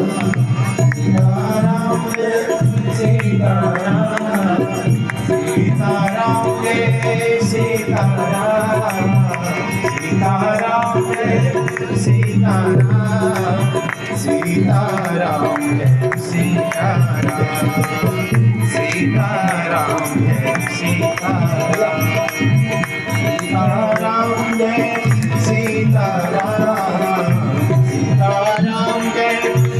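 Indian devotional music with tabla and a melodic line, continuous throughout.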